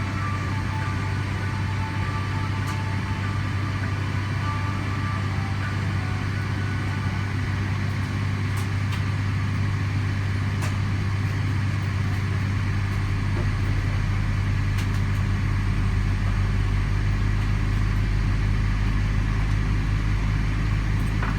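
Steady cabin noise inside a Boeing 777-300ER airliner, a low rumble that deepens and grows a little louder from about halfway, with a few faint clicks.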